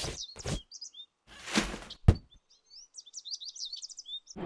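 Birds chirping in quick, high twittering phrases, with a few knocks near the start, a whoosh about a second and a half in, and a single sharp thump just after two seconds, the loudest sound.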